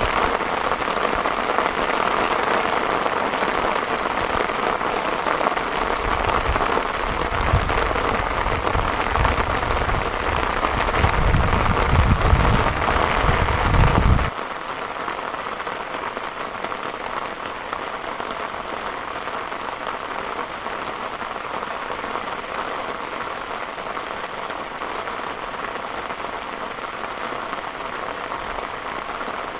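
Heavy rain falling steadily, with a low rumble building under it for several seconds; about halfway through the sound cuts suddenly to quieter, steady rain.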